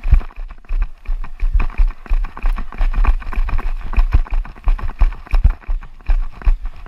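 A runner's footfalls in a steady running rhythm, each stride a deep thump with a rustle of clothing and gear between strides.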